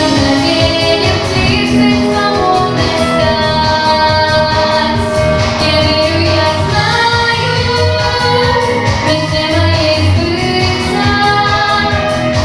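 A girl singing a pop song over a backing track with a steady beat.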